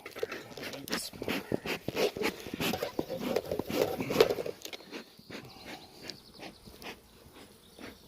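Wooden beehive parts being handled: a quick run of knocks, clatters and scrapes that is busiest in the first half and then thins out to scattered light taps.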